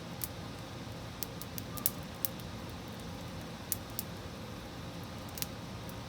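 Fire in a fireplace crackling: irregular sharp pops and snaps, the loudest about two seconds in, over a steady low rumble.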